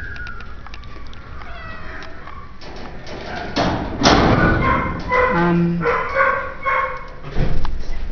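Shelter cats meowing, several short calls that bend in pitch, with a louder burst of rustling noise about four seconds in.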